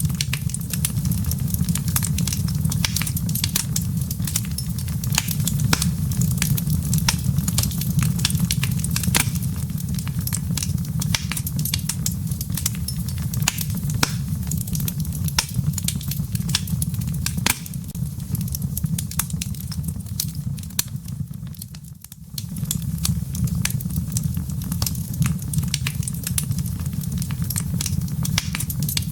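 Wood fire crackling in a fireplace: irregular sharp pops and snaps from the burning embers over a steady low rumble of the flames. The sound drops away briefly about three-quarters of the way through, then comes back.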